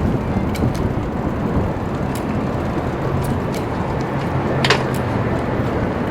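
Steady road traffic noise, with a few light clicks and a short rattle about three-quarters of the way through.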